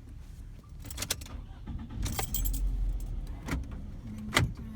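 Clicks and knocks inside a car cabin, with a low rumble of the car.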